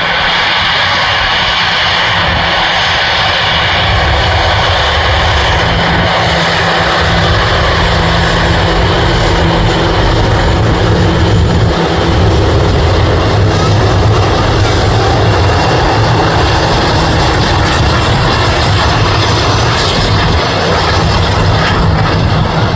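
Airbus A340-300's four CFM56 jet engines running loud and steady as the airliner rolls, with a low rumble under a steady whine, growing a little louder about halfway through.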